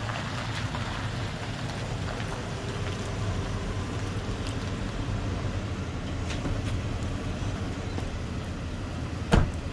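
Pickup truck engine running steadily, with a single sharp thump near the end.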